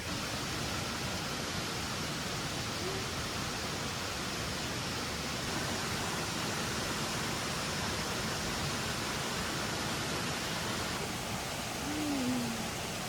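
Steady, even rushing noise with no distinct events, and a brief faint falling tone near the end.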